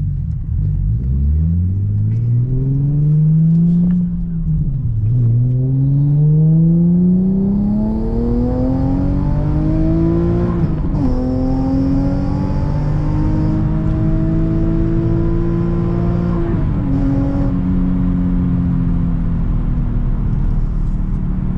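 Nissan VQ37VHR V6 with a custom titanium single-exit exhaust, high-flow cats and Y-pipe, accelerating hard through the gears. The engine note climbs in pitch, drops at an upshift about 4 s in, climbs again, shifts again around 11 s and 17 s, then holds a steady cruise.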